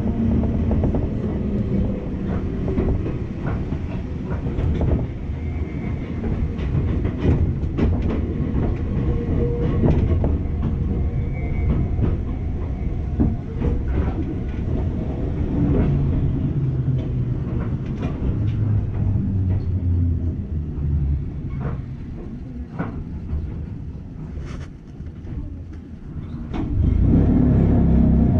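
Enoden electric train running, heard from inside the car: a steady low rumble of wheels on rail with irregular clicks over the track. A louder rumble swells near the end.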